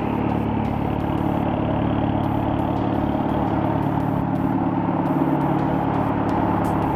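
Volkswagen Golf R Mk6's turbocharged four-cylinder engine running through a muffler-delete exhaust, a steady, loud exhaust note just after the engine speed drops. The muffler was deleted poorly, which is why the car drones.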